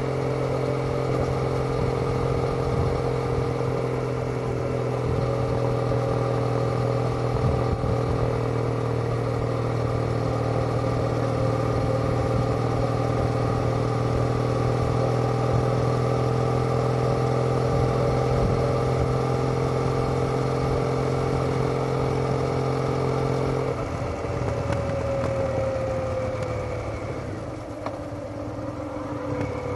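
Triumph Bonneville parallel-twin engine exhausting through TOGA aftermarket silencers, recorded on the bike while riding at a steady engine speed. About 24 seconds in the steady note breaks off and the engine pitch falls as the throttle eases and the bike slows.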